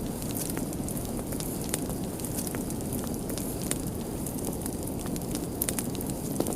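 Crackling fire burning steadily: a constant low rush of flames with frequent, irregular sharp crackles and pops.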